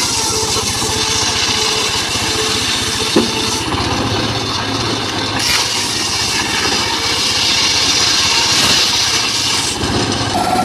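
Engine-driven mobile circular saw running steadily while cutting teak: the engine's even pulse sits under a hissing saw sound that grows louder and brighter from about halfway through until near the end. A single sharp knock about three seconds in.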